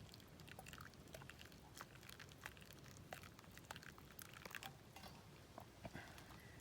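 Near silence broken by faint, irregular small clicks and ticks.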